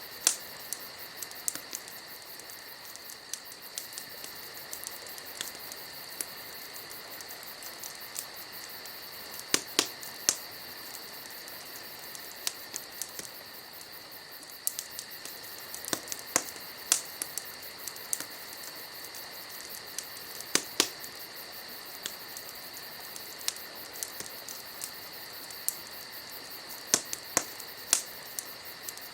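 Wood fire crackling, with irregular sharp pops, some single and some in quick clusters of two or three, over a steady high-pitched chirring in the background.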